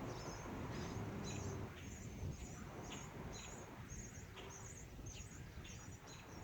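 Outdoor ambience: a small creature chirping high and regularly, about twice a second, over a low rumble of wind-like noise.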